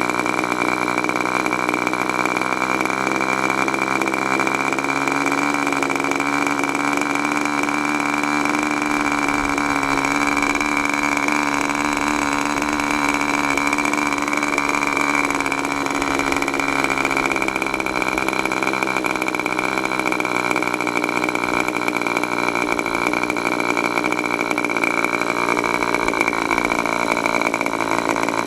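K&B .40 R/C two-stroke glow engine idling steadily. Its pitch climbs slightly about five seconds in and settles back down about seventeen seconds in, as the fuel line is pinched to lean the idle mixture and test whether the idle is too rich.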